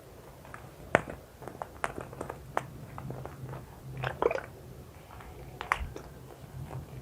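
Close-miked handling of serum containers: scattered small clicks, taps and short wet squishes, with a sharper click about a second in and clusters of squishy sounds around the middle and near the end.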